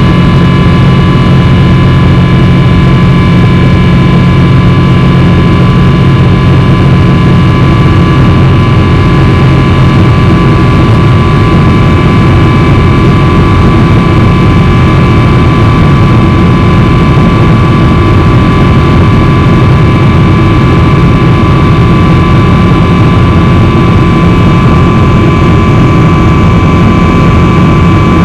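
Boeing 777-300's twin jet engines running steadily, heard from inside the cabin: a constant loud roar with several steady whining tones above it.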